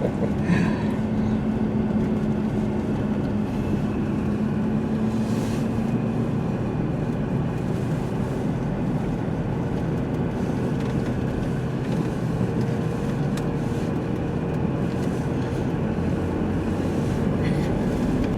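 A car driving along a road: steady engine and tyre noise with a low hum.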